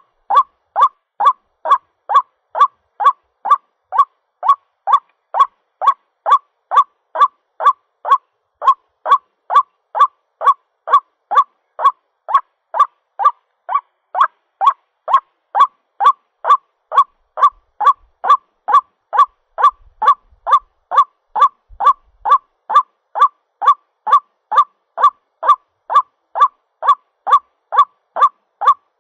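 White-breasted waterhen (ruak-ruak) calling, a lure recording of its mating call: short pitched "ruak" notes repeated steadily at about two a second.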